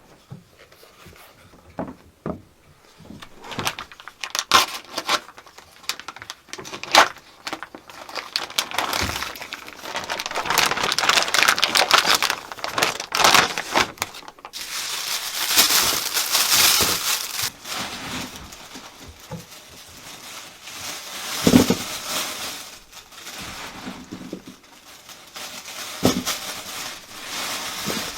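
Irregular rustling and crackling with scattered knocks, as of dry material such as branches or leaves being handled, densest about ten to seventeen seconds in.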